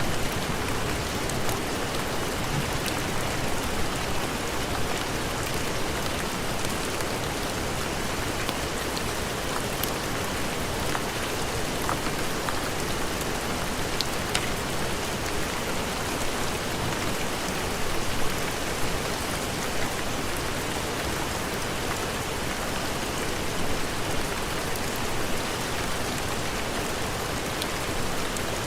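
Steady heavy rain, an even hiss of falling rain with scattered sharp ticks through it.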